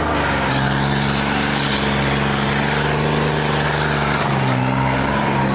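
A modified tractor's diesel engine working hard under full load. Its note rises just at the start, then holds a steady high-revving drone.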